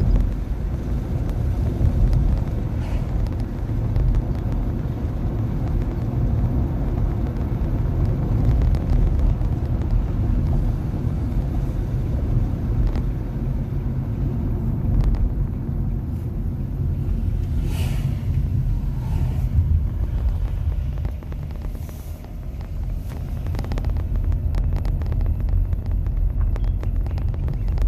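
Road and tyre noise inside a moving Nissan Leaf electric car: a steady low rumble, easing briefly about three quarters of the way through.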